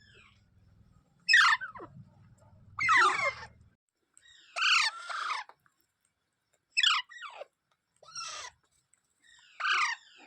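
Ringneck parrot calling: six short falling calls, spaced about a second and a half apart.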